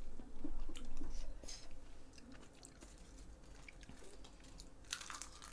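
A person chewing a mouthful of food close to the microphone, loudest in the first second and a half, with a few light clicks and a brief rush of breathy noise near the end.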